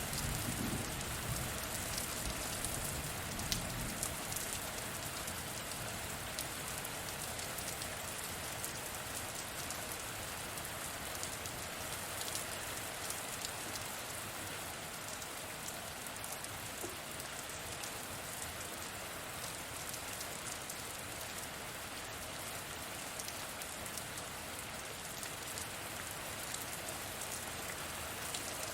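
Steady rainfall, a dense even hiss with scattered sharp drop ticks. A low rumble of distant thunder dies away in the first few seconds.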